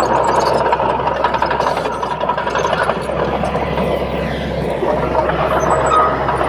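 Komatsu D31P bulldozer's diesel engine running steadily at work, with a sustained whine and scattered light metallic clinks.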